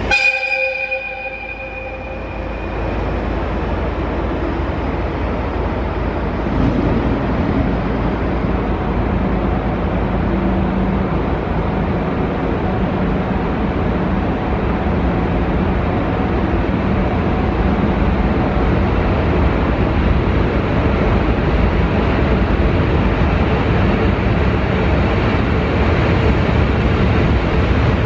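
Norokko sightseeing train running past, with steady rolling noise and a low diesel engine hum that grows slightly louder. A brief pitched tone sounds at the very start.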